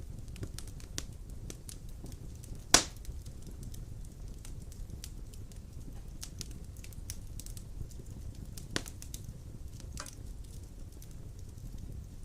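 Large wood logs burning in a stone fireplace: a steady low rush of flame with scattered small crackles, a sharp loud pop about three seconds in, and two softer pops later on.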